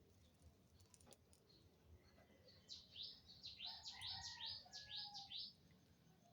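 A songbird singing faintly: a quick run of about ten high, falling chirps lasting a few seconds, starting about three seconds in.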